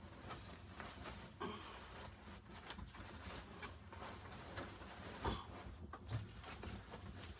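Soft handling noises: scattered small clicks and rustles, with a louder knock about five seconds in.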